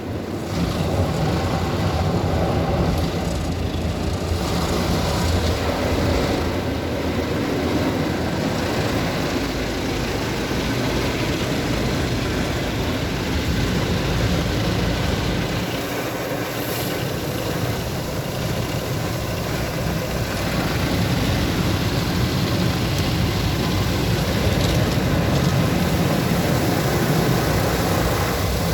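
Mark VII ChoiceWash XT automatic rollover car wash running: a loud, steady rushing noise of the machine at work, swelling a little after about twenty seconds.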